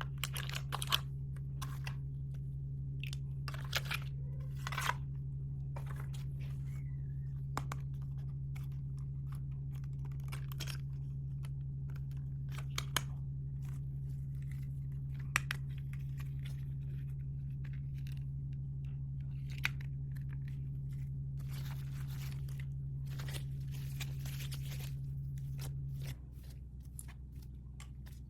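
Toy packaging being torn open and handled, with scattered crinkles, tears and small sharp clicks. A steady low hum lies underneath and drops away near the end.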